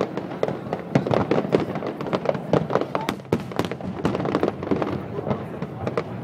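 Aerial fireworks display: an uneven, rapid string of bangs and pops from many shells bursting in quick succession.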